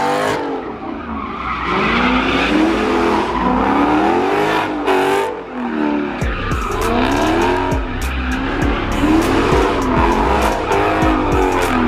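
Car engine revving up and down over and over, with tyres squealing, as during a burnout or donuts. From about six seconds in, a heavy bass beat thumps underneath.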